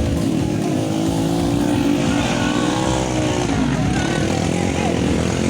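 Motocross motorcycle engines running, their pitch wavering gently up and down.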